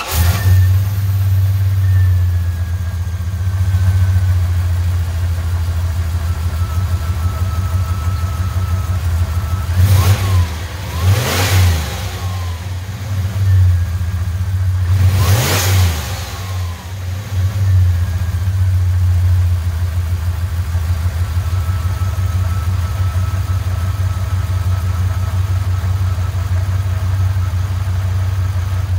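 Turbocharged 5.9 Magnum 360 V8 idling just after startup with its exhaust and turbo downpipe hooked up, with a faint whine above the engine note. It is blipped up and back down twice, about ten and fifteen seconds in.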